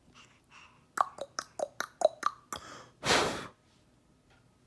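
A quick run of about eight mouth pops or tongue clicks, each dropping in pitch, followed by one short breathy huff.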